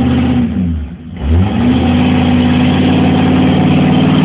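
2003 Ford F-250 pickup engine revving hard with its wheels spinning in mud. The revs fall off briefly about a second in, then climb back up and stay high.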